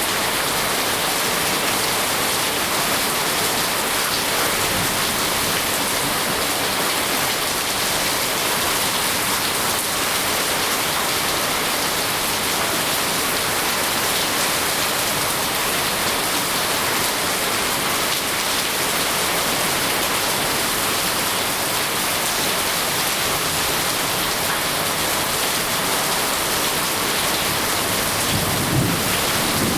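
Steady rain, an even, unbroken hiss, with a brief low rumble near the end.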